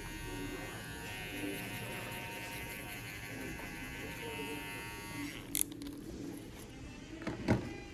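TPOB GO hair clippers buzzing steadily while cutting hair, then switched off a little over five seconds in. A sharp click follows, and a louder knock comes near the end.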